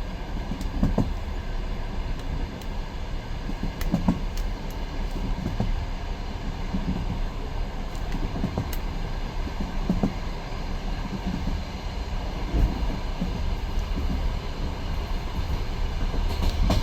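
A railway carriage running along the track: a steady low rumble with the clatter of wheels over the rails and a heavier knock every few seconds.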